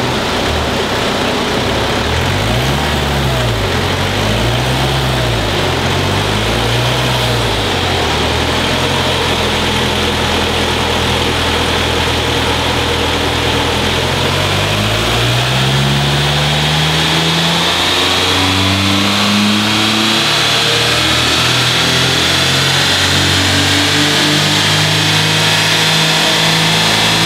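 Peugeot 206 car engine running on a chassis dyno: revved up and back down three times, held steady, then climbing steadily in pitch under load through the last ten seconds or so, with a high whine rising along with it.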